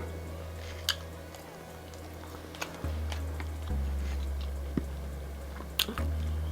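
A person chewing food close to the microphone, with a few sharp wet mouth clicks scattered through.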